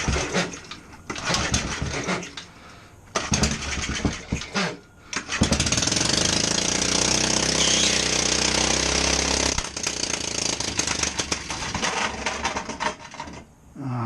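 Small Briggs and Stratton flathead engine being started: rattling, stop-start cranking bursts at first, then the engine turns over steadily for about four seconds around the middle before dropping back to a weaker rattle. The owner suspects the flywheel key has sheared again.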